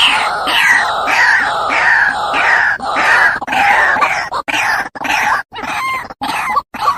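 White-breasted waterhen (ruak-ruak) calling loudly, one call repeated over and over about one and a half times a second. In the last couple of seconds it breaks into shorter, choppier notes.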